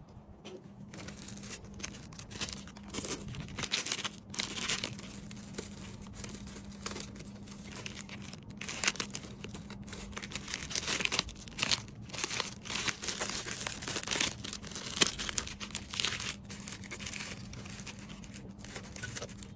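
Plastic packaging crinkling and rustling continuously as small items are handled and packed, with tearing-like rips among the crackle.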